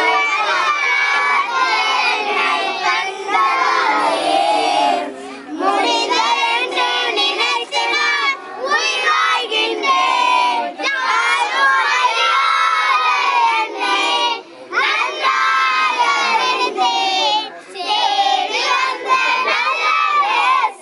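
Many children's voices singing and shouting together in high pitch, a crowd of kids.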